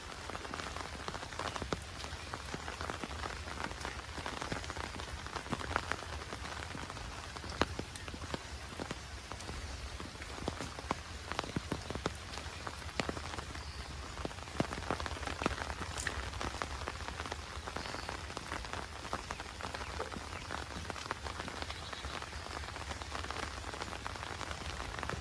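Heavy monsoon rain falling steadily, with a constant hiss and many sharp individual drops ticking close by.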